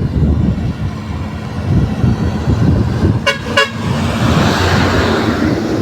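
Two quick toots of a vehicle horn, a fraction of a second apart, over a steady low rumble, with a rushing hiss swelling just after.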